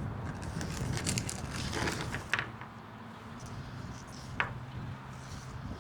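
Wind rumbling on the microphone, with a few short sharp clicks and rustles about one, two and four seconds in.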